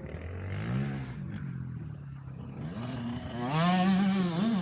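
Two-stroke motocross bike engine, throttle mostly closed for the first few seconds with its pitch dipping and rising, then opened up about three and a half seconds in and running louder with rising pitch.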